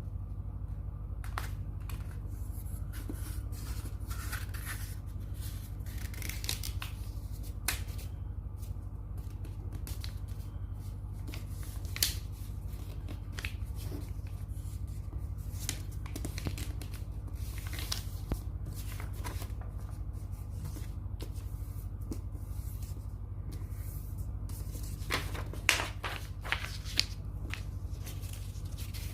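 Paper being handled and folded by hand: scattered rustles, crinkles and sharp creasing clicks, with a few louder snaps near the end, over a steady low hum.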